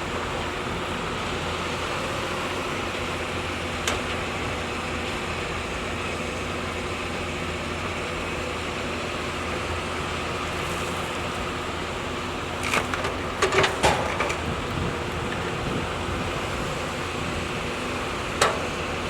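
Hyundai excavator's diesel engine running steadily, with a few sharp knocks: one about four seconds in, a quick cluster about two-thirds of the way through, and one more near the end.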